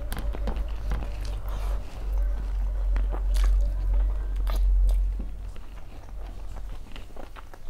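Close-miked chewing and wet mouth sounds of a person eating rice and curry by hand, with scattered smacks and clicks. A low rumble swells under it from about two seconds in to about five seconds in.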